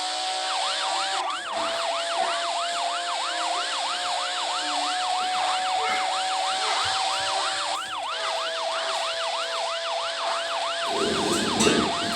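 Police siren in a fast yelp, its pitch sweeping up and down about three to four times a second over a steady underlying tone. A brief low rumble comes in near the end.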